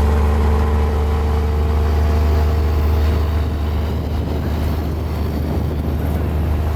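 Mini Komatsu bulldozer's diesel engine running steadily with a deep hum.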